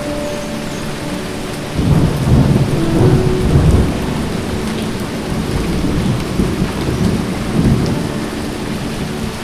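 Steady heavy rain falling, with a deep rumble of thunder swelling up about two seconds in and rolling on more faintly afterwards.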